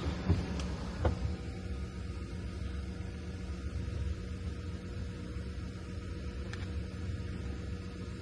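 Steady low mechanical hum, with two short knocks in the first second or so.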